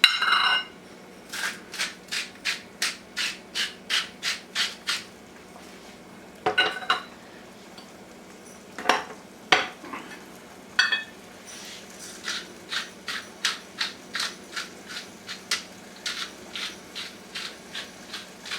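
Salt and pepper grinders being twisted: two runs of rhythmic rasping clicks, about three a second, with a few louder knocks in between.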